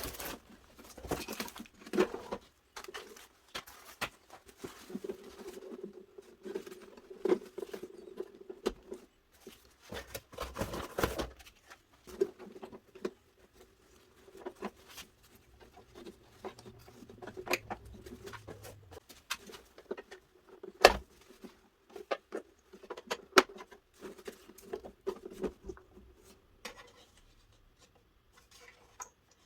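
Plastic parts of a Miele S711 vacuum cleaner being handled, fitted and screwed together: scattered clicks, taps and scratching of plastic, with one sharp knock about 21 seconds in.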